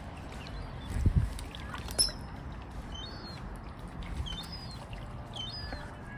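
Wild birds calling: a string of short, high chirps and downward-hooked notes scattered through, over a steady rush of outdoor background noise. A low thump about a second in is the loudest sound, with a sharp click a second later.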